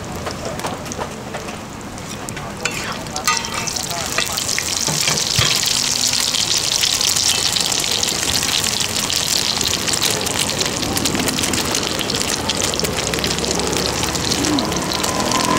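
Thai-style omelet deep-frying in bubbling oil in a large wok: a dense, crackling sizzle that grows much louder about three seconds in, then holds steady.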